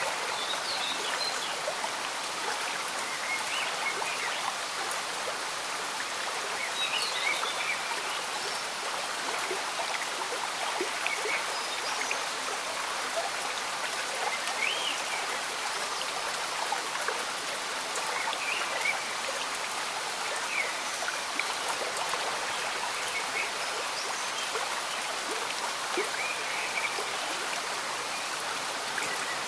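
A slow-moving stream bubbling steadily, with rain falling, and scattered short high-pitched blips throughout.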